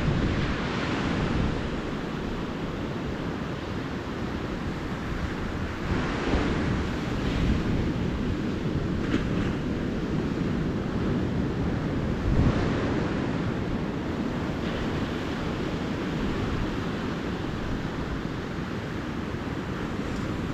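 Ocean surf on a beach: a steady wash of small waves, with a wave breaking and surging louder near the start, about six seconds in and again about twelve seconds in.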